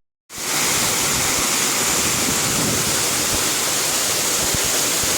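Waterfall rushing: a steady, even noise of falling water. It starts after a brief dropout of about a third of a second at the very start, where two clips are joined.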